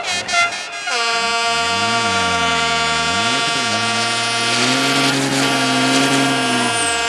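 Truck air horn: a couple of short toots, then one long steady blast held for about six seconds, with truck engines revving up and down underneath.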